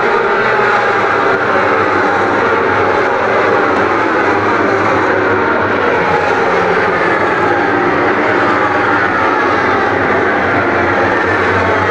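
A pack of racing motorcycles running at high revs, many engines overlapping, their pitches rising and falling as they pass.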